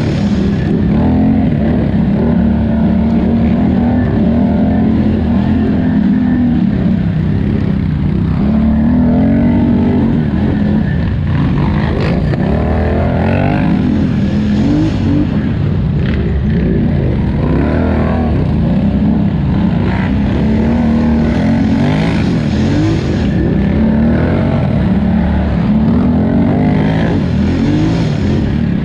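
2018 Polaris Scrambler 1000 XP ATV's twin-cylinder engine running hard, its pitch rising and falling continually as the throttle is worked, with a few sharp knocks along the way.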